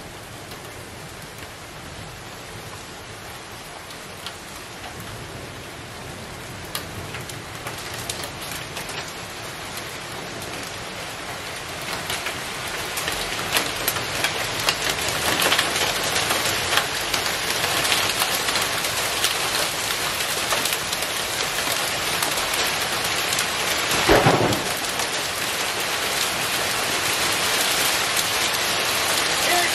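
Heavy rain pouring and pattering on surfaces, growing louder about halfway through as the storm front moves in, with more and more sharp ticks of hard impacts. One short loud crack about six seconds before the end.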